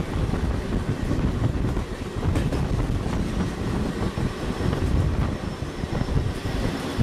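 Passenger train coaches running at speed, heard from inside a moving coach: a steady, fluctuating rumble and rattle of wheels on rail, with another train running close alongside on the parallel track.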